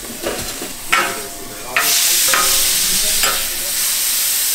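A few sharp knocks, then from about two seconds in a sudden loud sizzle of ground meat frying on a flat-top griddle, with a metal spatula tapping and scraping as the meat is stirred.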